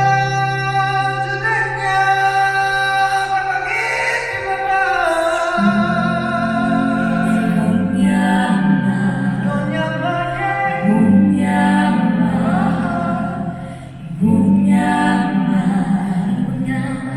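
Several voices singing in harmony, a cappella, holding chords over a low sustained bass line; the singing eases briefly about fourteen seconds in, then carries on.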